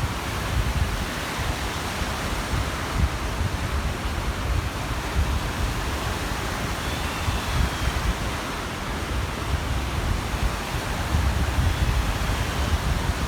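Waves washing onto a reservoir shore, a steady rush of water, with wind buffeting the microphone in low gusts.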